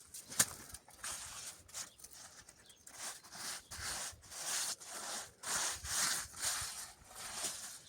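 A hand tool scraping and working cement mortar on a floor in repeated rough strokes, with a sharp click near the start.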